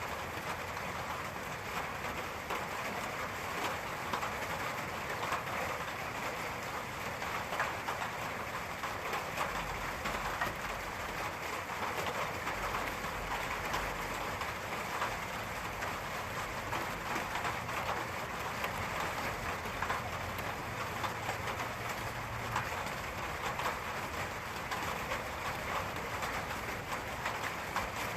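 Steady rain falling, a dense patter of drops hitting a surface. A faint low rumble comes in about ten seconds in.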